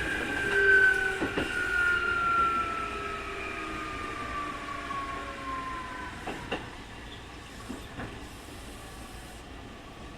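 Keikyu 2000 series electric train's running sound from inside the car, its abnormal 'jet sound' whine falling steadily in pitch as the train slows, then dying out about six and a half seconds in. A few wheel clacks over rail joints, while the overall noise fades.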